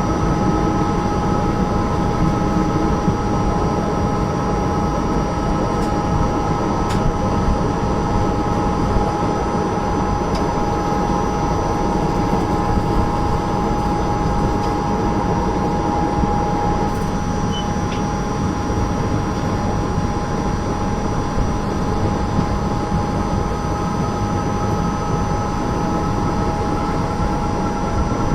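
Indian Railways passenger train running steadily: a constant, even rumble with several unchanging whining tones over it, and a few faint clicks.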